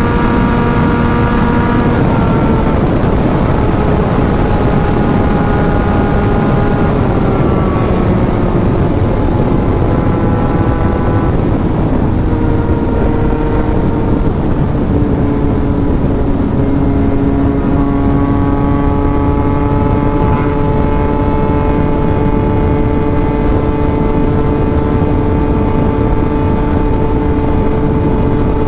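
Yamaha MT-09 three-cylinder engine with an aftermarket exhaust, running hard at high speed under a dense rush of wind noise. Its note shifts pitch several times in the first half, then holds steady.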